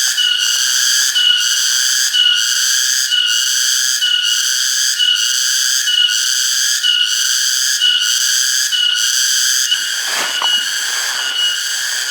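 Cicadas calling loudly in a high, pulsing buzz that repeats about one and a half times a second. A brief low noise comes about ten seconds in.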